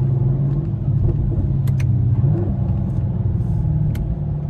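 Chevrolet Camaro SS's V8 engine running low and steady while creeping in traffic, its pitch shifting slightly a little past halfway, with a few faint clicks.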